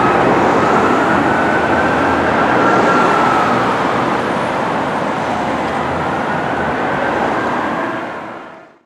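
Fire apparatus siren wailing in a slow rise and fall over road and vehicle noise, fading out near the end.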